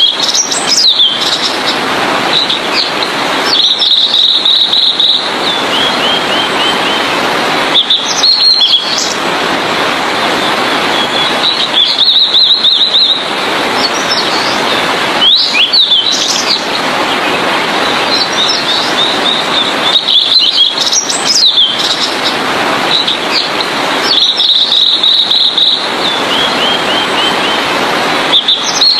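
Blue-and-white flycatcher singing: short phrases of high whistles and quick trills, some ending in a falling run of short notes, repeated every few seconds. A steady hiss of background noise runs underneath.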